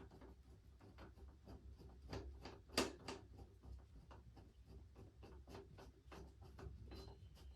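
Faint, irregular light clicks and taps, with one sharper knock about three seconds in, over a low steady hum.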